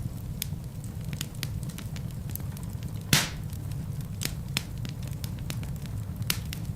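Wood fire burning in a fireplace: a steady low rumble of flames with scattered crackles, and one loud pop about three seconds in.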